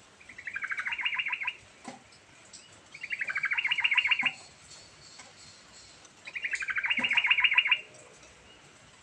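Yellow-vented bulbul (trucukan) singing: three phrases of rapid, evenly repeated chattering notes, each about a second and a half long and growing louder towards its end, with short pauses between.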